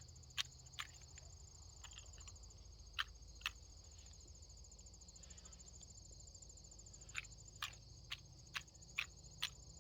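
Faint, steady high-pitched trilling of crickets or other insects. Sharp chip notes sound twice early on, twice more about three seconds in, then repeat evenly at about two a second from about seven seconds in.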